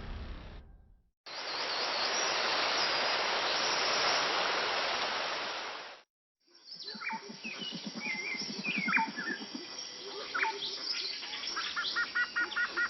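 About five seconds of steady rushing water from a waterfall, starting and stopping abruptly, then rainforest birds calling and chirping, with a low rapid rattling call for a couple of seconds and a quick run of repeated chirps near the end.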